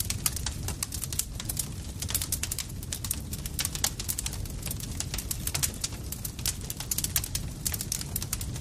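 Campfire crackling: frequent sharp pops and snaps of burning wood over a steady low rumble of the fire.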